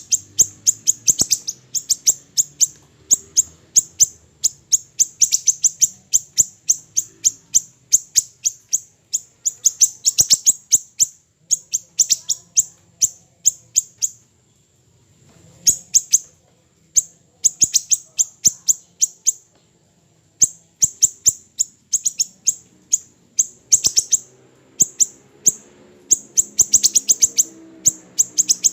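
Siri-siri kecil songbird singing a fast string of short, sharp, high-pitched chips, several a second, with one brief pause about halfway through.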